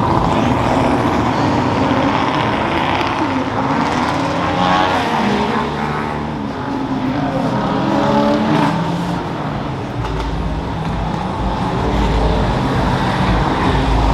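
Car engines running and revving at a car meet, with pitch rising and falling several times and a deep rumble building in the second half as cars pass close by.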